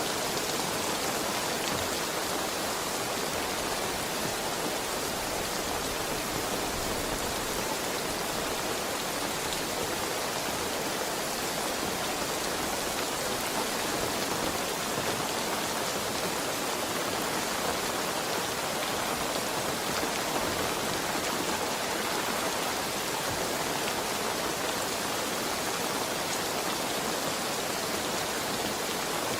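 Steady heavy rain falling, an even hiss without any thunder.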